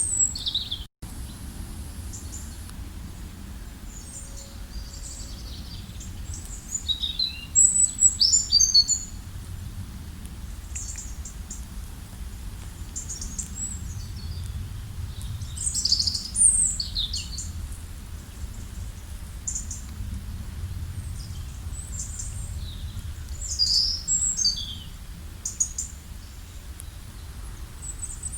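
Wild birds singing and chirping: many short, high, quick calls and trills from several birds, coming in clusters, over a steady low rumble.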